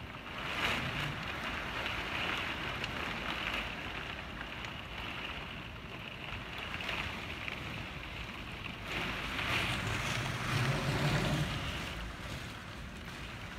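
Hurricane Nate's wind gusting and buffeting the microphone, a rushing noise with no steady tone. Gusts swell about half a second in and again around nine to eleven seconds in.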